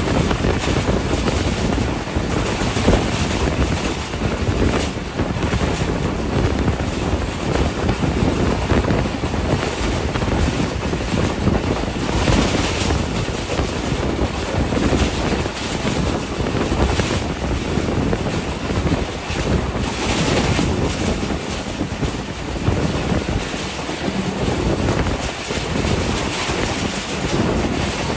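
Passenger train coach running at speed: a steady rush of wheel and track noise, with wind buffeting the microphone at the open window.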